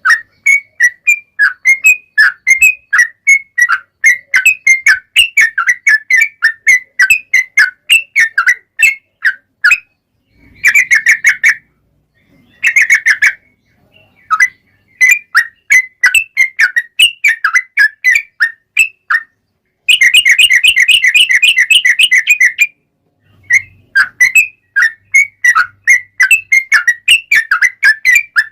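Trucukan bulbul song: fast runs of loud, chirping whistled notes broken by short pauses, with one long rapid trill about two-thirds of the way through, the 'ropel panjang' used as a lure call.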